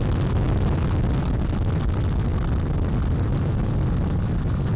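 Space Launch System rocket climbing just after liftoff, its four RS-25 core-stage engines and two solid rocket boosters firing as one steady, loud rumble, heaviest in the low end.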